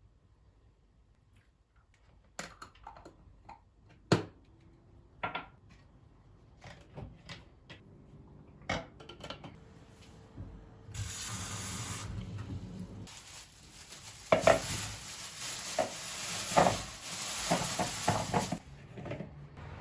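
Kitchen work: scattered knocks and clinks of dishes and utensils. About halfway through a steady hiss starts, breaks off briefly, then returns under louder clattering of dishes before it stops near the end.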